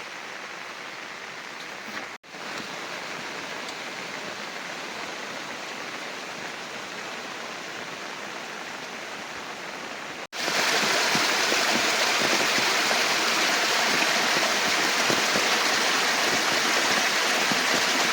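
Heavy rain and running water: a steady rushing noise. It cuts out abruptly twice, about two seconds in and again about ten seconds in, and is louder after the second break.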